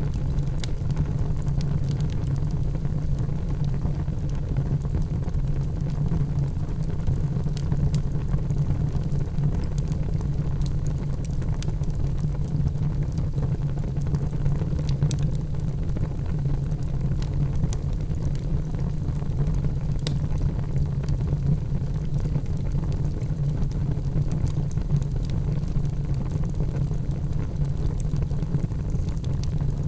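Wood fire burning in a fireplace: a steady low rush of flames with scattered sharp crackles and pops.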